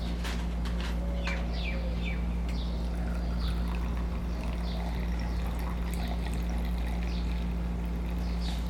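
Small birds chirping in short, repeated downward-sliding calls, with a few light clicks, over a steady low electrical hum.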